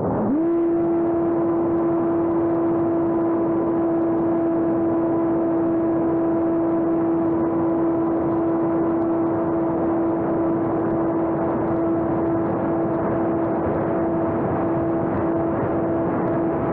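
Electric motor and propeller of a homemade RC airplane spinning up in a fraction of a second and then running at one steady pitch, a constant whine over a rush of air.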